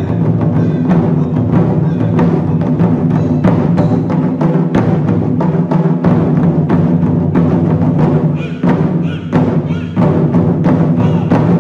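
Japanese taiko ensemble playing: several drums on slanted stands and a drum on a tall stand struck with sticks in a fast, dense rhythm. The playing eases briefly about eight seconds in, then returns to full strength.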